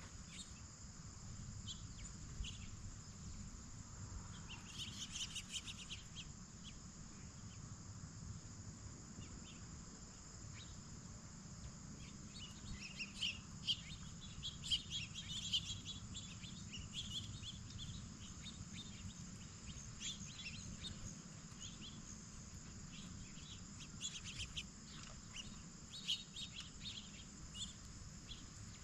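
Steady high-pitched chorus of crickets and other insects, with clusters of short bird chirps about five seconds in, through the middle, and again near the end, over a low background rumble.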